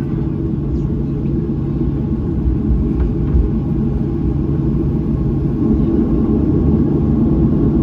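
Steady low rumble inside an airliner's cabin as it taxis, from the jet engines at taxi power and the wheels rolling, with a faint steady hum. It grows a little louder over the last couple of seconds.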